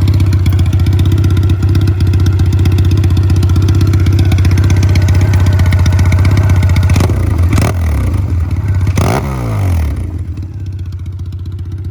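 A 2014 Triumph Bonneville T100's parallel-twin engine running loud through straight pipes with the mufflers deleted. It runs steadily, gives two quick throttle blips that fall back about seven and nine seconds in, then settles to a quieter idle near the end.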